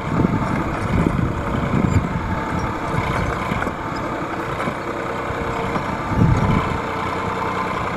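Massey Ferguson 7250 DI tractor's diesel engine running steadily.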